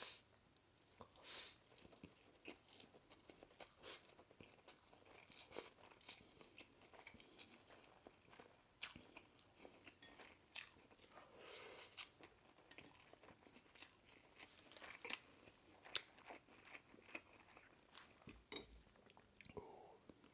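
Faint close-up eating sounds: a person chewing food with scattered wet mouth clicks and smacks.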